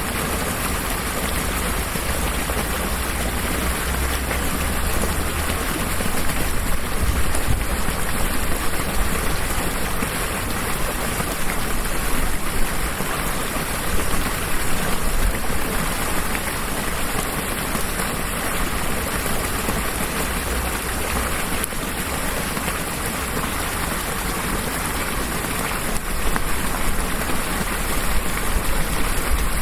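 Steady rain falling: an even hiss that runs on without a break, with a low rumble underneath.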